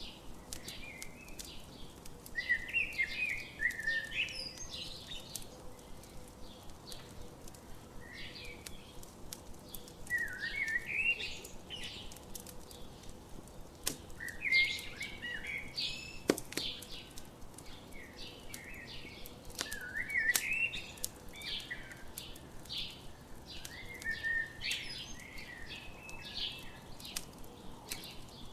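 A songbird singing short warbling phrases, repeated every four to five seconds, over the scattered pops and crackle of a wood campfire.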